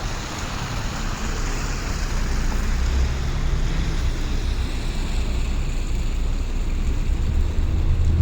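Steady outdoor city traffic noise: an even rush of passing vehicles with a low engine rumble that swells about three seconds in and again near the end.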